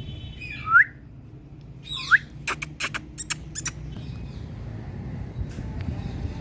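Indian ringneck parrot giving two short calls about a second apart, each sweeping down in pitch and ending in an upward hook. Then comes a quick run of about nine sharp, clicking chirps lasting a second.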